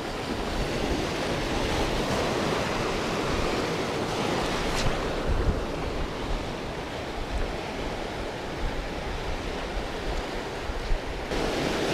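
Steady rushing of sea waves and wind on the microphone, with a single faint click about five seconds in.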